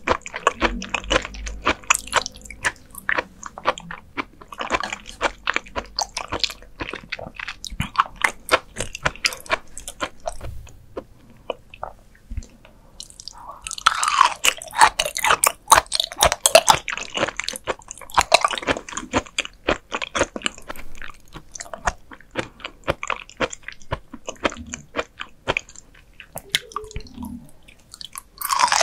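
Close-miked chewing and biting of raw beef liver: rapid, crisp, wet crunching clicks, busiest about halfway through.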